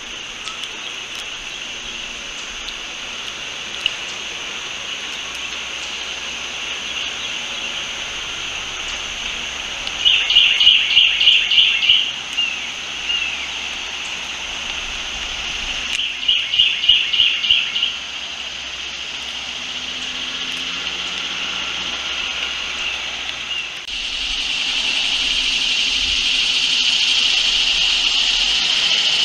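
Outdoor ambience: a bird sings a fast, even trill twice, each about two seconds long, about ten and sixteen seconds in, over a steady high-pitched buzz. About 24 seconds in the high buzz swells suddenly and stays louder.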